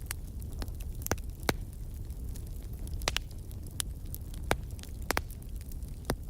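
Wood fire crackling in a fireplace: irregular sharp pops and snaps, a few louder than the rest, over a low steady rumble of the burning.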